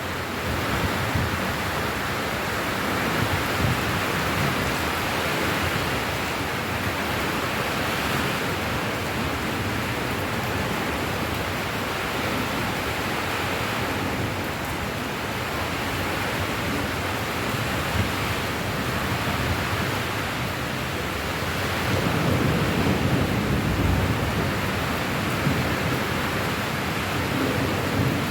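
Steady heavy rain hissing evenly. A low rumble swells for a few seconds about 22 seconds in.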